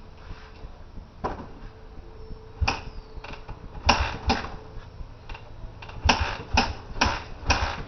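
Kick-starting a 2002 Suzuki 125 dirt bike from cold: a run of sharp clacks from the kickstarter, scattered at first and then about two a second, with the engine not catching.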